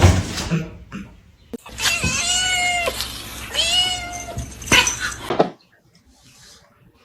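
A domestic cat meowing twice, two drawn-out meows each rising and then falling in pitch, followed by a short sharp knock.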